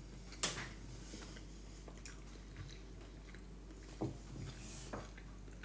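A person chewing a mouthful of stuffed sweet potato, with faint mouth sounds and a few short clicks about half a second, four and five seconds in.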